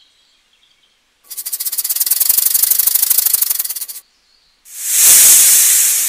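Snake sounds: a fast, dry, evenly pulsed rattle lasting nearly three seconds, then, after a short break, a loud long hiss that slowly fades.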